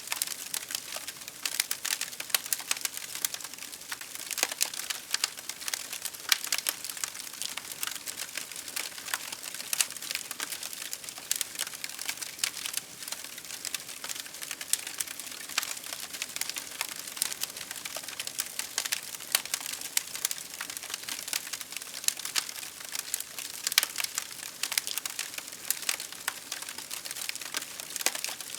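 Wood fire crackling: dense, irregular snaps and pops over a steady hiss of burning.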